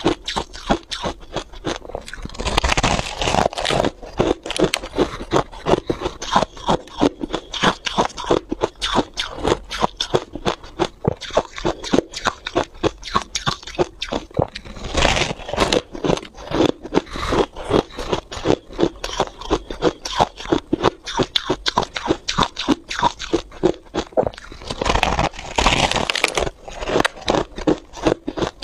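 Freezer frost being chewed: a quick, continuous run of crisp crunches, with louder, longer stretches of scraping crunch a few seconds in, about halfway and near the end.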